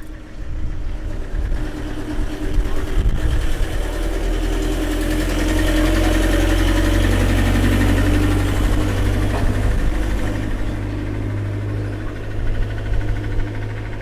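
Motor vehicle engine running close by with a steady low hum, growing louder over the first few seconds and easing off again after about ten seconds, as a vehicle passes slowly.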